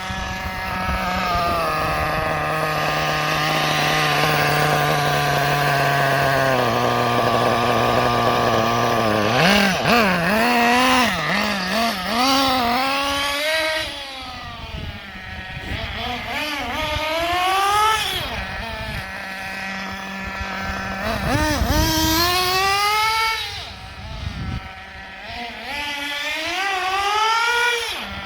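Kyosho MP10's RB .21 nitro engine being revved during carburettor tuning. It is held at high revs for several seconds and drops in steps, then is blipped up and down again and again, falling back briefly to a steady idle between blips.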